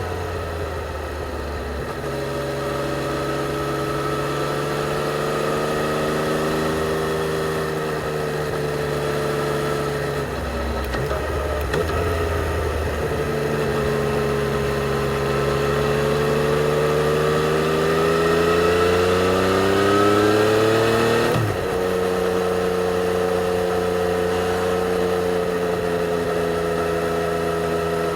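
A Yamaha XSR 900's inline-three engine through its stock exhaust, on the move. Its pitch settles after a fall at the start, wavers, then climbs steadily for several seconds under acceleration. It drops sharply about 21 seconds in and runs steady after that.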